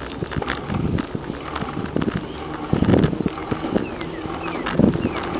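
Irregular rattling and knocking of a bicycle being ridden along a trail. Near the end come a few short, falling chirps from a small animal.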